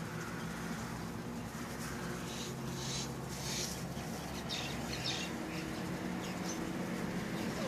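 Small birds chirping in short, high bursts, several in the middle few seconds, over a steady low hum.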